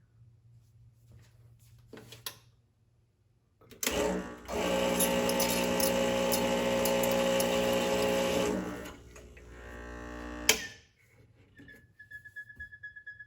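Rancilio espresso machine humming loudly and steadily for about five seconds after start-up, then dropping to a softer hum that stops with a sharp click. Toward the end a high, pulsing tone starts. The hum is, according to support, likely from air bubbles in the machine trying to escape.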